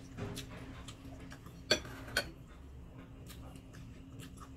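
Close-up eating sounds of someone chewing a mouthful of rice and shrimp: scattered small ticks and smacks, with two louder sharp clicks about half a second apart near the middle.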